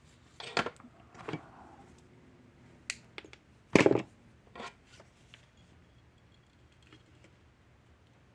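Tools and parts being handled on a workbench during circuit-board repair: a few scattered clicks and scrapes in the first five seconds, the loudest about four seconds in, then only faint background hum.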